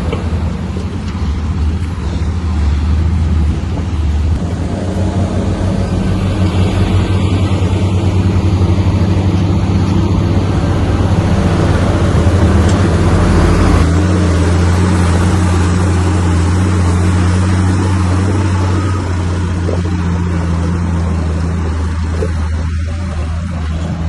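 Komatsu bulldozer's diesel engine running hard under load, its note shifting up and down a few times.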